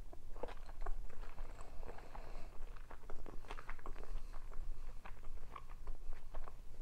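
Close-up chewing of soft food: irregular wet mouth clicks and smacks.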